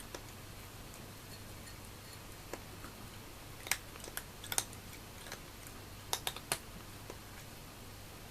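A cat eating dry food: a scattering of sharp crunches and clicks in two small clusters, around the middle and again a couple of seconds later, over a faint steady hum.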